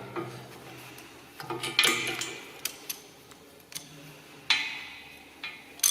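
Irregular metallic clinks and taps of a ratchet and socket being handled and fitted onto a nut and bolt.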